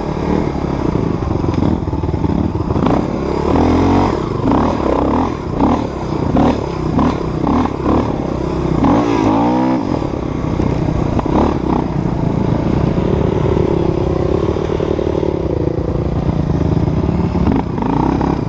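Dirt bike engine running under load, the revs rising and falling repeatedly, with a quick drop and climb in revs just before the middle, then a steadier run; clattering from the bike over rough ground runs underneath.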